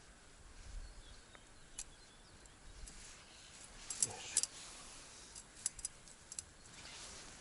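A few scattered sharp clicks and light taps over a faint, steady outdoor background, with a cluster of clicks about four seconds in.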